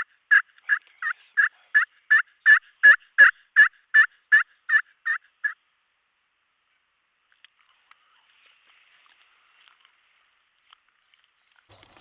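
Turkey yelping: a long, even series of about fifteen yelps, roughly three a second, growing louder toward the middle and then fading, ending about halfway through. Faint rustling follows.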